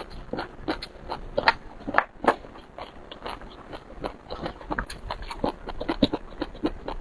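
Close-miked eating: irregular biting and chewing with many short wet smacks, clicks and crunches, a few to several each second.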